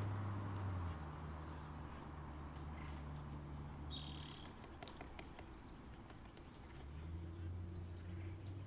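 A low engine hum fades out, and about four seconds in a bird gives one short call, followed by a quick run of faint taps. The hum rises again near the end.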